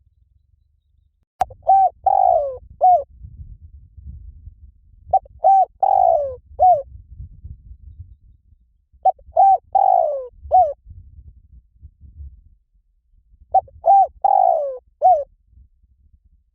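Spotted dove cooing: four repeated phrases of several coos about four seconds apart, each with a longer, falling middle note, over a low rumble. The sound starts suddenly with a click about a second and a half in.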